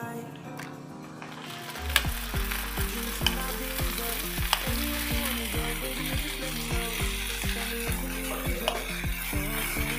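Marinated chicken pieces sizzling in hot oil with fried onions, with a metal spatula clicking against the pan as they are turned. Soft background music with a bass line comes in about two seconds in.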